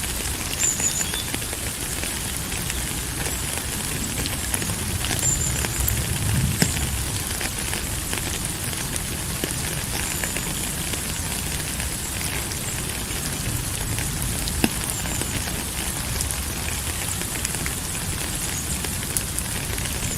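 Steady rain falling, an even hiss with scattered sharp drop clicks and a low rumble underneath. A few faint short high notes come and go.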